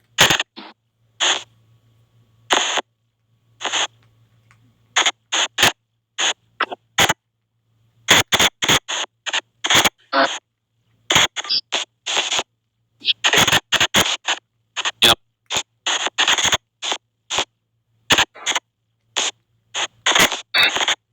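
Spirit box app on a phone playing white-noise sweeps: a rapid, irregular string of short, clipped bursts of hissing static, one to three a second, with brief silences between them.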